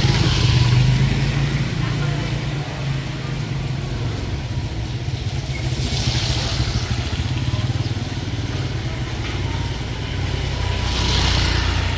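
A motor engine running steadily, with a rushing hiss that swells three times.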